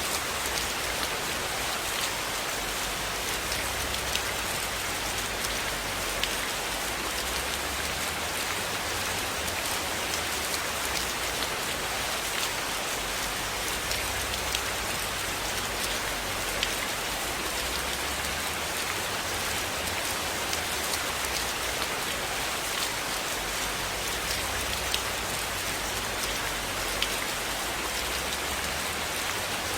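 Steady rain falling on a surface, an even hiss with scattered sharp ticks and a low rumble underneath.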